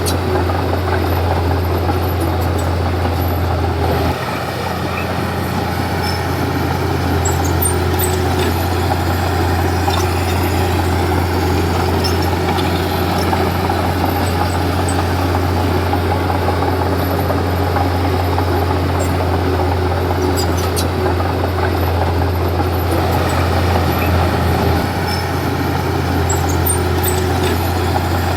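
Komatsu D31P bulldozer's diesel engine running steadily under load while pushing soil and stone, with faint clicks from the tracks or stones. The engine note drops suddenly about four seconds in, then builds again over the next few seconds.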